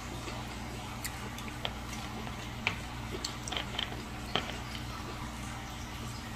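A person chewing a lettuce-wrapped fish roll. Soft eating sounds with scattered small clicks and crackles, most of them in the first half, over a steady low hum.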